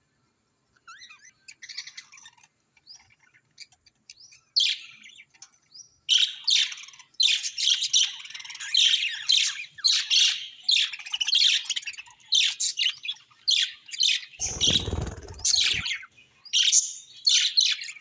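Small pet parrots chirping and squawking: a few faint chirps at first, then dense, rapid chirping from about six seconds in. About two-thirds of the way through, a brief low rumble lasts for a second or so.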